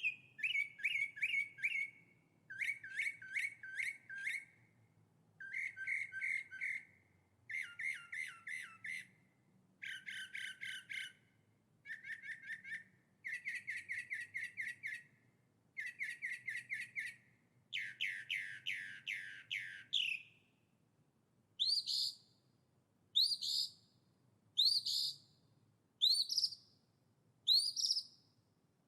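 A songbird singing: about nine phrases of quick repeated notes, each phrase about a second and a half long. Later the song changes to single sharp rising whistles, about one every second and a half.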